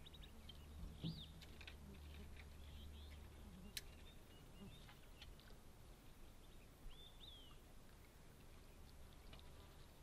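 Near silence with a few faint bird chirps, one about a second in and one near seven seconds, over a faint low hum.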